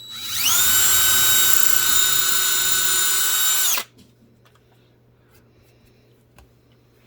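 Power drill spinning up and running steadily for about three seconds while drilling a screw hole, then stopping abruptly. A few light clicks follow.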